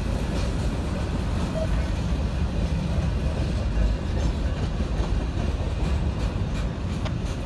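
A train passing, with a steady low rumble and a few faint clicks later on.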